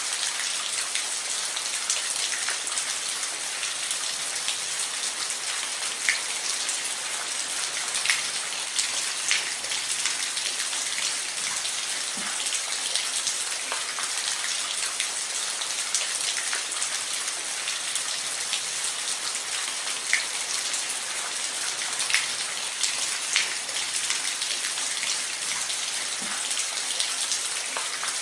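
Steady rain falling on a roof: a constant hiss with individual drops ticking sharply here and there.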